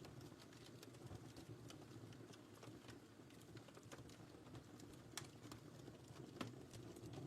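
Wood fire in a fireplace crackling: scattered sharp ticks and pops over a soft, steady low rumble of the flames, with two louder pops in the second half.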